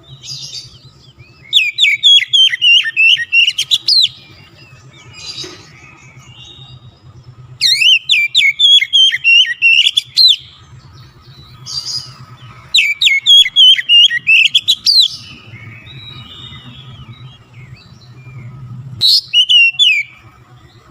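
Oriental magpie-robin (kacer) singing in four loud bursts of fast, repeated high whistled notes, each two to three seconds long, with quieter chirps between them. A faint steady low hum lies underneath.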